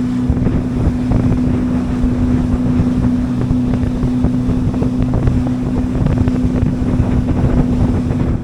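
Small fishing boat's outboard motor running at steady revs under way, a steady drone with wind rushing over the microphone. It cuts off suddenly at the end.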